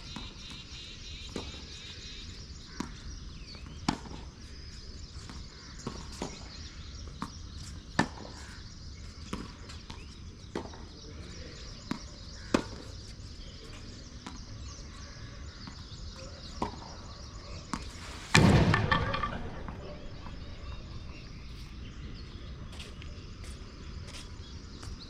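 Tennis balls being struck and bouncing on a court: sharp single knocks every second or two. A louder, longer thud comes about eighteen seconds in.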